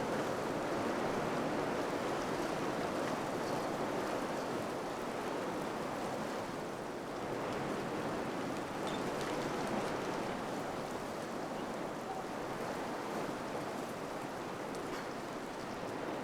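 Wind blowing steadily through a village, a soft rushing that swells and eases a little, with a few faint ticks.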